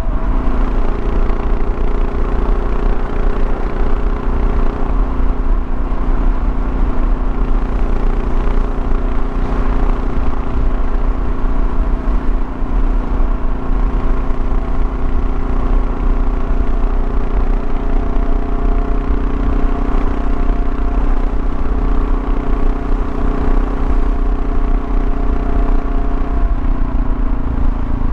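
Kawasaki KLR650's single-cylinder engine running steadily at cruise, with road and wind noise. The engine note changes shortly before the end.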